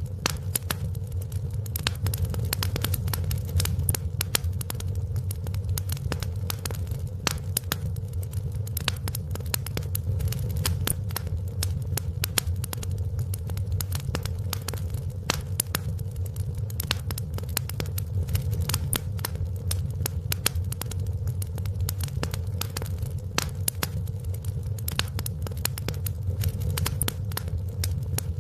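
Wood fire burning in a fireplace, crackling and popping with many quick, irregular snaps over a steady low rumble of the flames.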